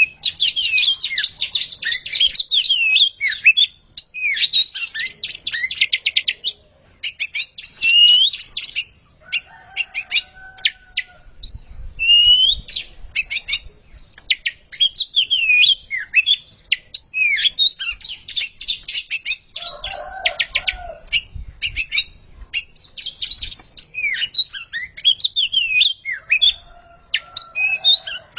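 Oriental magpie-robins singing in a nearly continuous run of varied whistles and rapid trills, with a few lower warbled phrases now and then; a pair is singing against each other.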